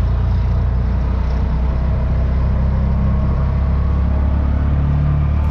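Motor vehicle engine and road noise heard from a moving vehicle in city traffic: a steady low rumble.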